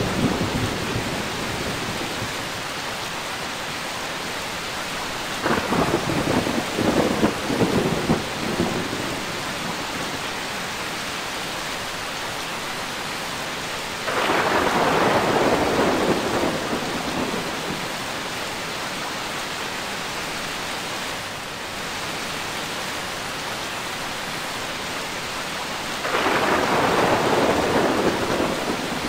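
Steady rain during a thunderstorm, with thunder over it several times. The tail of a rumble fades at the start, a crackling peal comes about five seconds in, and longer rolling rumbles come near the middle and near the end.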